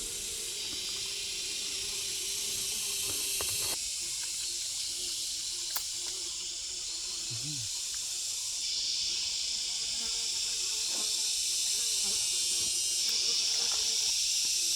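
Steady high-pitched insect chorus that shifts abruptly in level a few times, with one short low sound about halfway through.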